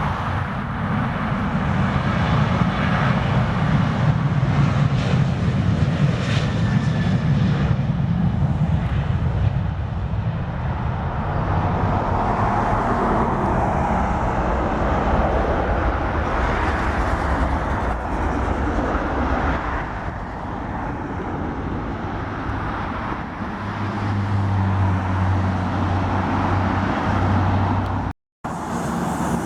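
Jet aircraft engine noise on or near the runway, a steady broad rush. A low hum joins in late, and the sound cuts out for a moment near the end.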